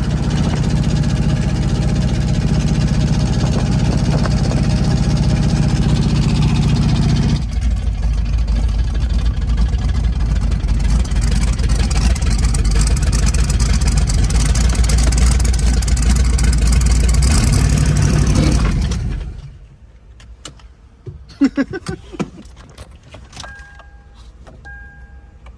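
Twin-turbo LS V8 running with a snapped connecting rod; its sound changes about seven seconds in, and it shuts off about 19 seconds in. Afterwards come a few clicks and three short electronic chime beeps.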